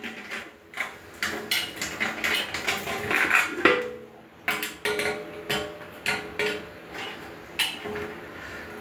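Metal grill parts clanking and knocking together as they are handled and fitted during assembly. Many irregular knocks, some ringing briefly.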